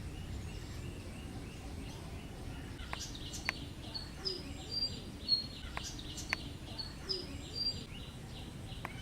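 Indian paradise flycatcher calling in a field recording: from about 3 s in, short high notes repeat roughly once every 0.8 s, with several sharp clicks, over a steady background hiss.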